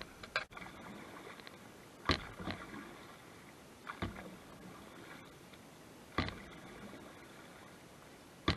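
Canoe paddle strokes in lake water: a splash about every two seconds, five in all, each followed by a short trickle of water.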